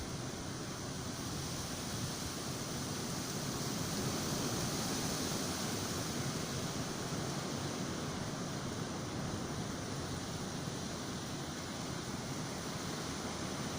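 Blizzard wind blowing steadily, swelling a little a few seconds in.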